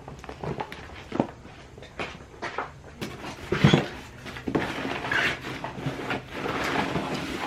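Hands rummaging through small items: scattered knocks and clicks, a louder knock about three and a half seconds in, then steady rustling as things are pushed around.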